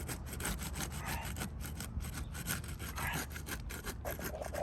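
A tool scraping and rasping under asphalt roof shingles, working their adhesive seal strips loose in quick repeated strokes.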